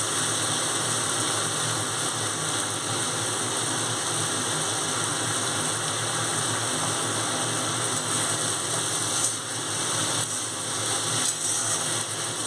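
Potato and taro-stem sticks sizzling steadily in hot oil in a kadai, with a low steady hum underneath.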